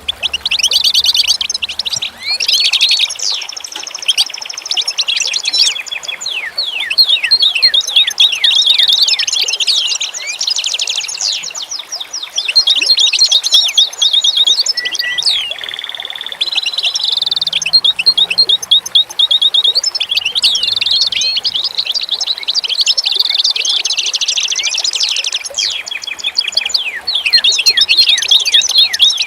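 A chorus of many small birds chirping and singing at once: dense, overlapping rapid high-pitched chirps and trills with no break.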